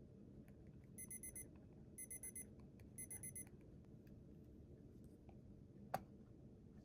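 Electronic study timer beeping its alarm: three quick bursts of about four high beeps each, a second apart, signalling the end of the 30-minute session. A single sharp click follows near the end.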